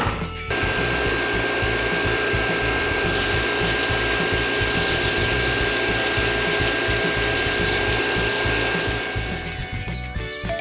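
A small machine running steadily, with a rattling, gear-like grind and a high, steady whine. It starts about half a second in and fades out near the end.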